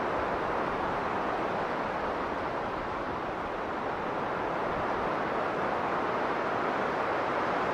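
Strong blizzard wind blowing in a steady, dense rush, easing slightly for a moment about halfway through.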